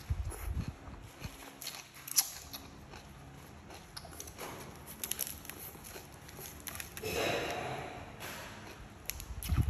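Close-up chewing of stir-fried greens, with small clicks of bamboo chopsticks and the crinkle of a fresh lettuce leaf being handled and folded. There is a louder stretch of noise about seven seconds in.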